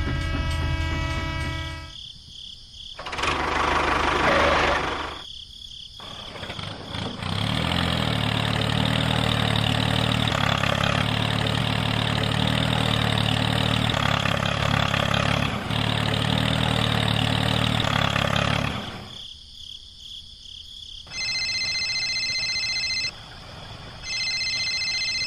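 Tractor engine running steadily for about twelve seconds, after a short hissing burst. Near the end there are two electronic beeping tones, each about two seconds long.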